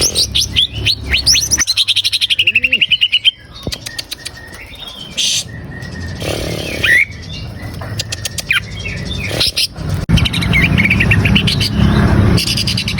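Green leafbird (cucak ijo) singing: a rapid run of sweeping whistled notes turning into a trill, then scattered clicks and short calls, and a second burst of song near the end over a low rumble.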